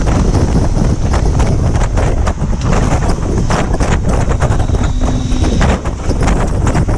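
Loud, constant wind buffeting on the microphone: a dense low rumble broken by frequent irregular knocks.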